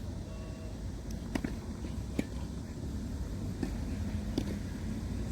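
A few short, sharp tennis ball impacts, a hit or a bounce on the court, spaced about a second apart over a steady low background rumble.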